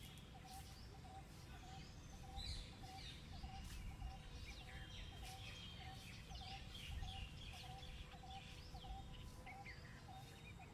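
Birds calling in a park. One bird repeats a short low note about twice a second throughout, while other birds add quick high chirps, busiest in the middle, over a faint low rumble.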